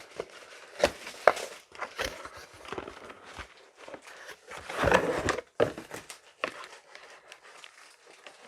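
Handling of a plastic-wrapped 3D-printer filament spool: scattered clicks and knocks with crinkling plastic, and a louder rustle about five seconds in.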